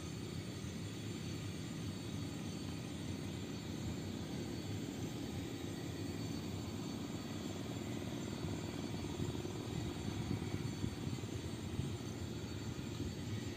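The four turbofan engines of an Avro RJ85 airliner running steadily.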